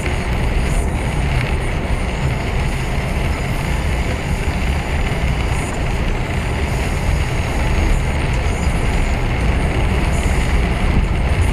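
A lorry on the move, heard from inside the cab: a steady low engine drone with road and tyre noise over it.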